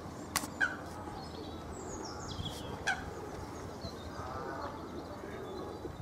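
Birds calling: short sharp chirps, two close together near the start and one about three seconds in, with a few falling high whistles and fainter chatter in between.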